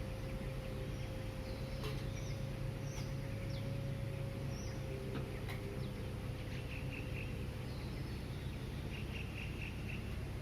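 Birds chirping over the steady low rumble of distant city traffic before dawn. The chirps are short and scattered, with two quick runs of repeated notes in the second half, and a faint steady tone in the background fades out about midway.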